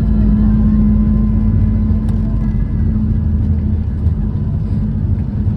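Steady loud rumble of a Ryanair Boeing 737 heard from inside the cabin during the landing, with a steady hum running through it that fades near the end.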